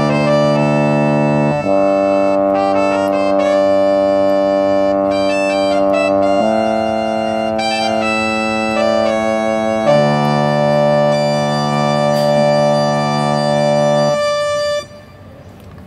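Yamaha CK61 stage keyboard playing one of its brass/wind voices: held chords with a moving melody on top, the chord changing every few seconds. The playing stops about a second before the end.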